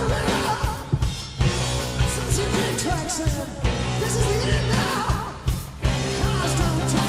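Live rock band music: a male lead vocal sung by the drummer over his own steady drum beat, with bass and guitar.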